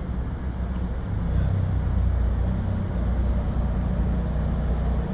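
Mercedes-AMG GT S's twin-turbo V8 running with a low rumble as the car leaves, growing louder about a second in.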